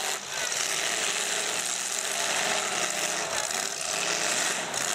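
Engines of full-size demolition derby cars running and revving over a steady rush of noise.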